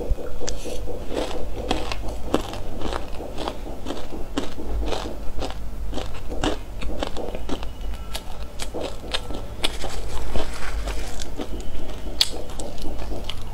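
Close-miked chewing of a mouthful of sesame seeds: many small crisp crunches coming several times a second, without a break.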